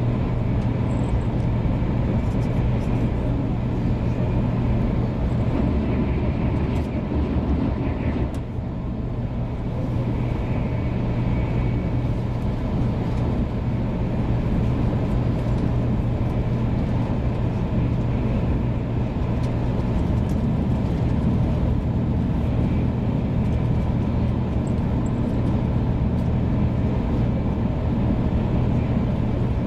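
Cabin noise of a 500 series Shinkansen running at speed: a steady low rumble and hum. It dips briefly about eight seconds in.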